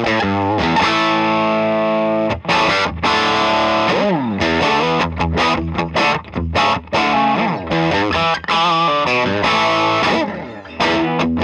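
Electric guitar played through a Songbird Redtail amplifier with a distorted, overdriven tone: a quick run of picked notes and chords with a few sliding notes.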